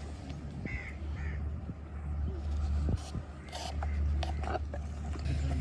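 A few short bird calls over a steady low hum, with scattered taps and knocks later on.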